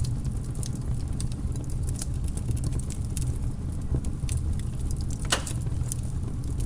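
Logs burning in a fireplace: a steady low rumble of flames with scattered crackles and sharp pops, one louder pop about five seconds in.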